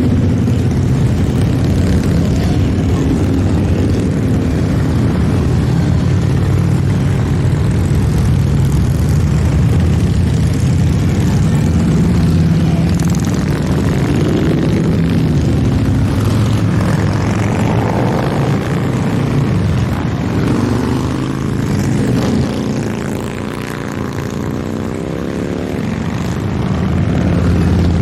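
A parade of motorcycles riding past in a continuous engine rumble, with individual bikes gliding up and down in pitch as they go by, most noticeably near the end.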